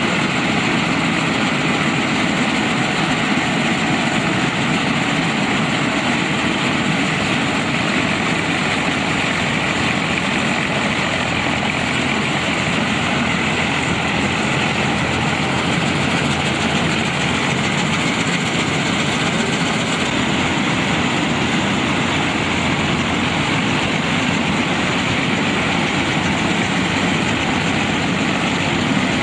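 4WD combine harvester running steadily, its diesel engine and machinery making a continuous, unbroken noise.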